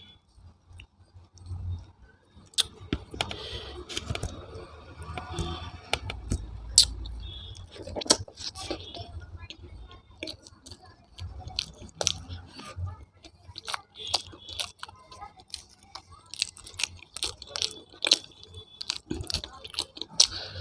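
A person chewing food with many wet mouth clicks and smacks, irregular throughout.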